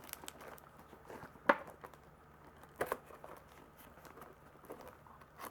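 Packing material crinkling and rustling as a box is unpacked by hand, with scattered small crackles and a sharp click about a second and a half in and another near three seconds.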